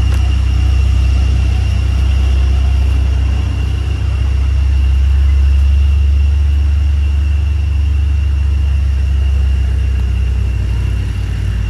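Steady low rumble of a motor vehicle, with a faint steady high-pitched whine over it.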